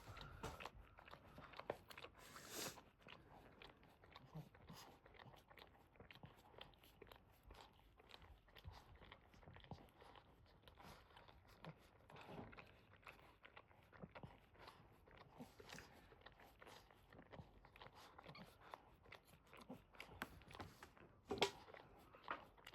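Quiet, irregular small clicks and smacks, typical of a Boston Terrier mother licking and chewing over her newborn puppy just after whelping, with a couple of louder smacks near the end.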